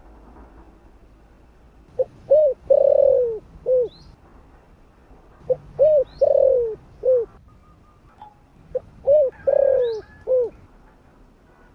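Spotted dove cooing: three phrases about three and a half seconds apart, each a few short coos around one longer, falling note. Faint high chirps sound alongside.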